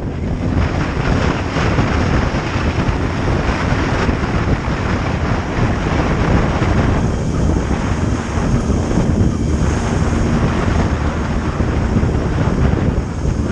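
Heavy wind noise over the microphone of a moving motorcycle at road speed, with the bike's engine running steadily underneath.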